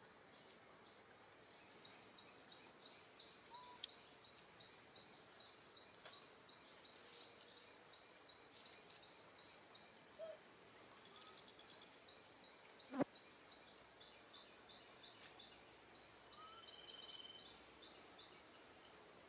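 Faint, evenly repeated short high chirps, about three or four a second, from a bird calling, with a brief pause around the middle. A single sharp click comes about two-thirds of the way through.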